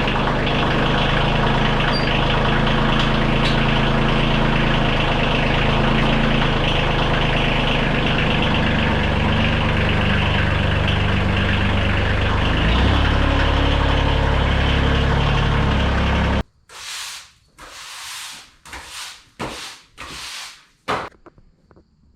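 The stock Tecumseh engine of a Sears Custom 10XL garden tractor running steadily, its note changing about thirteen seconds in, then stopping abruptly about two-thirds of the way through; several short rushing noises follow. This is the engine the owner says runs poorly with no power and blows smoke, suspecting a bad head gasket, a warped head or a cracked block.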